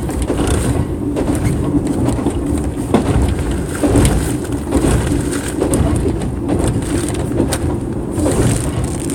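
Passenger sleeper train running, heard inside the carriage: a steady rumble with irregular rattles and knocks.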